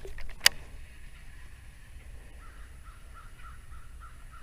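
A single sharp click about half a second in, then a bird calling faintly in a quick run of short, repeated notes, about four a second, through the second half.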